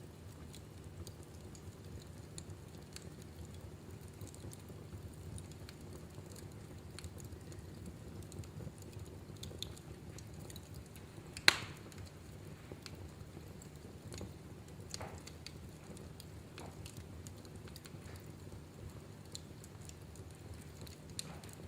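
Wood fire crackling in a fireplace: a steady low rumble of flames with scattered small crackles, and one sharp, loud pop about halfway through.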